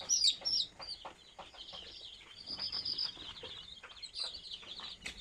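A flock of native chicks cheeping together: a dense, continuous run of short, high peeps, with a few sharper gliding cheeps in the first second.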